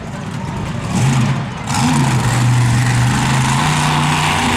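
Monster truck engine revving up about a second in, then held at high throttle with a steady drone under a loud rushing noise.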